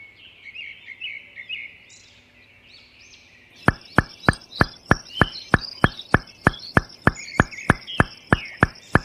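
Outdoor ambience with small birds chirping, then a steady series of sharp knocks, about three a second, starting a little before halfway and running to the end.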